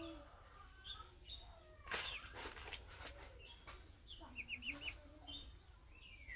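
Budgerigar chattering and warbling: a busy mix of short chirps, clicks and low gurgling notes, with a quick run of four short chirps about two-thirds of the way through.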